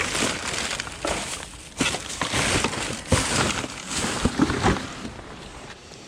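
Scrap being rummaged through and pulled from a junk pile: rustling and crumpling with several sharp knocks and clanks as pieces are moved, dying down near the end.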